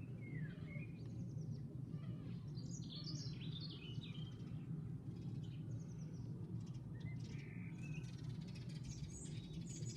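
Small birds chirping and twittering in scattered bursts, busiest about three seconds in and again near the end, over a steady low background hum.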